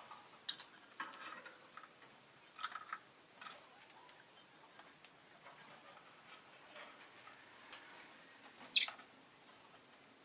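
Rosy-faced lovebird making scattered short chirps and clicks, with one sharp, louder chirp about nine seconds in.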